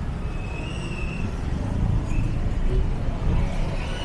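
City street ambience: a steady low rumble of passing road traffic, with a faint, high, wavering tone about half a second in.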